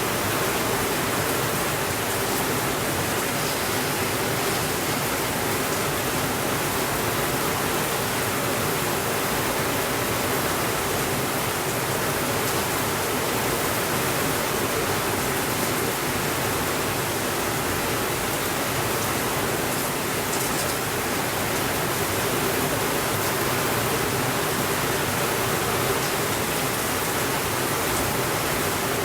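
Steady rainfall, an even hiss with no changes in level.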